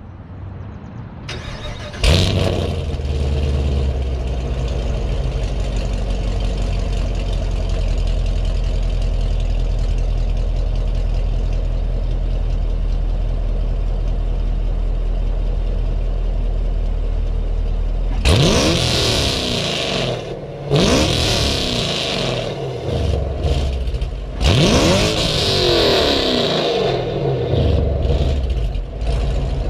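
2019 Camaro SS's 6.2-litre LT1 V8, breathing through Texas Speed 1 7/8-inch long-tube headers, starts about two seconds in with a sudden jump in loudness and settles into a steady idle. From about eighteen seconds it is revved hard several times, each rev rising and falling sharply, the highest to about 7,000 rpm.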